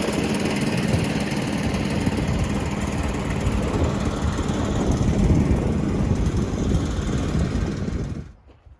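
Sawmill running with a loud, steady engine-and-saw noise that cuts off abruptly near the end.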